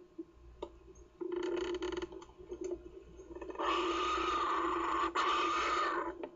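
Kookaburra chick giving harsh, rasping calls: a short one about a second in, then a longer one of about two and a half seconds.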